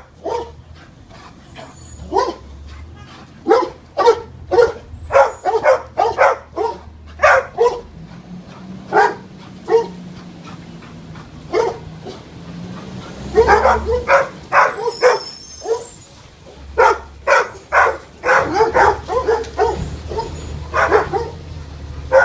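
A dog barking over and over in quick irregular runs of short barks, over a low steady hum.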